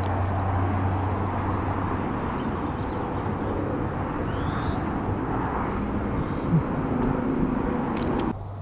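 Aircraft engine droning steadily, with a few short high chirps from small birds over it. The drone cuts off suddenly near the end.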